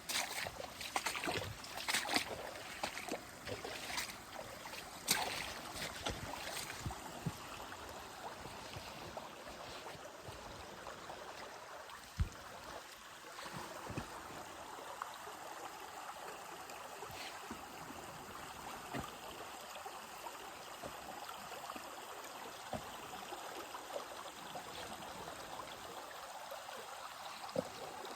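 A stream running steadily, with a series of sharp clicks and knocks over the first six seconds and a single knock about twelve seconds in.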